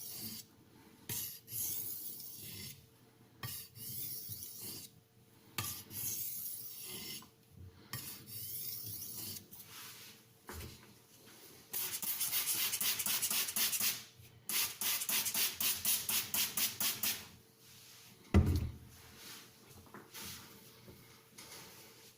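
Steel knife edge scraping across a fine Haidu HCJ-S aluminium oxide sharpening stone (JIS 6000) in sharpening strokes: separate passes about one a second at first, then a long continuous scrape and a quick run of short strokes about four a second. A single thump sounds near the end.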